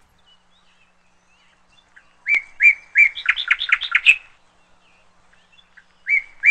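Bird chirping: a quick run of high, sweeping chirps starting about two seconds in, and another short burst near the end.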